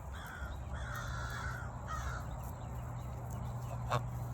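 A bird's harsh calls, three in the first two seconds, the middle one the longest, followed by a sharp knock near the end.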